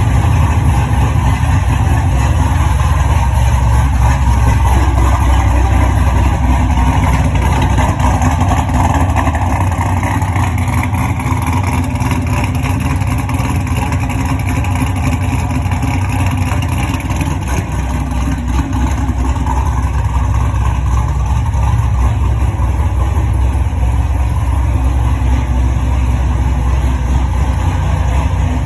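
Chevrolet Corvette C6 Z06's 7.0-litre LS7 V8 idling steadily through ARH headers and a Borla ATAK exhaust, fitted with a BTR Stage 4 camshaft.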